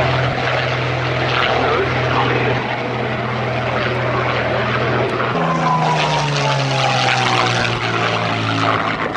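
Vintage piston-engined propeller aircraft flying past with a steady engine drone; about five seconds in the note changes and then slowly falls in pitch as it passes.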